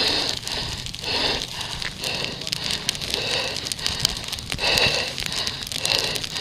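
A person panting hard, with a breathy gasp coming about once a second, out of breath from kicking out a grass fire.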